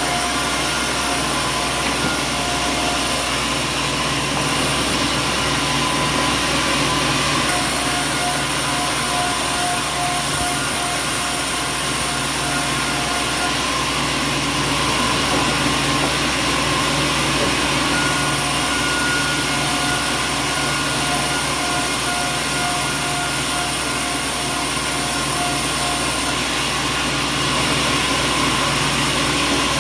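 Steady machinery running: a continuous mechanical hum and whir that does not change in level, with a faint, rapidly pulsing high tone that comes and goes.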